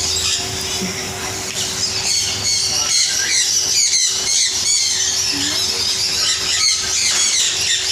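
Many caged parrots and other small birds chirping and squawking together in a dense, unbroken chorus, with a faint steady hum underneath.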